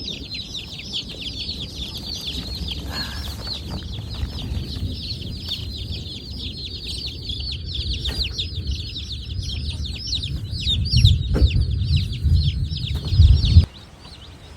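A brooder full of about fifty meat-bird chicks peeping nonstop, a dense chorus of short, high, falling peeps. Underneath runs a low rumble that gets louder near the end and then cuts off suddenly.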